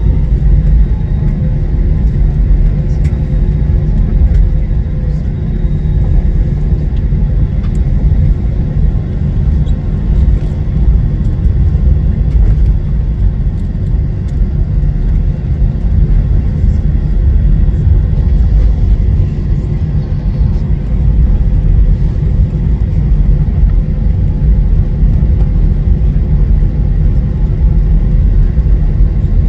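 Airliner cabin noise while taxiing after landing: a steady low rumble with faint steady tones above it.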